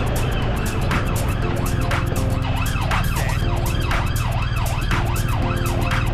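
A siren-like wail rising and falling about twice a second over music with a steady beat.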